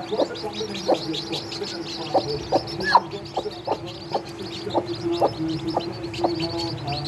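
Chicks peeping rapidly in high, falling chirps, with a hen clucking about twice a second underneath and a steady low hum.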